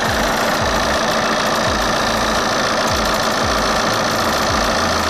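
Opel Astra 1.9 CDTI diesel engine running steadily with diesel clatter, being run up to temperature to circulate a radiator flush through a cooling system that is losing coolant to a suspected blown head gasket.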